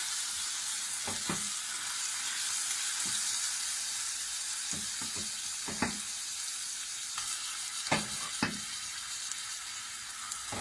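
Yogurt-marinated chicken sizzling in hot oil and butter with browned onions in a pan: a steady high sizzle, with a few short knocks and scrapes as it is stirred against the pan.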